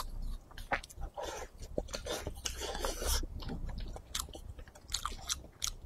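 A person chewing a mouthful of yellow-braised beef brisket, potato and rice, with many short mouth clicks and soft chewing noises scattered throughout.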